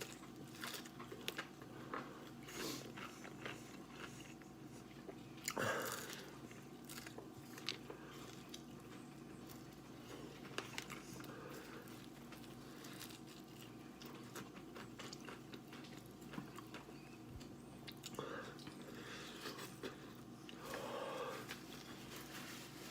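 Someone chewing and biting into crispy fried chicken wings: faint, irregular crunches and wet mouth clicks over a steady low hum, with a louder moment about six seconds in and again near the end.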